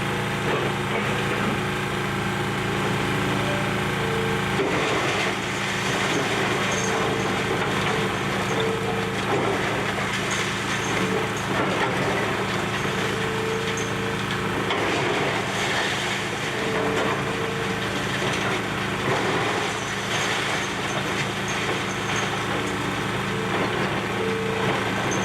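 Demolition excavator's engine running steadily while debris crunches and cracks as the building is torn down, the crunching starting a few seconds in.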